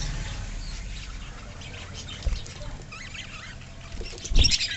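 A colony of lovebirds chirping with short high calls. A low thud comes about two seconds in, and a louder low thump near the end, joined by a burst of chirps.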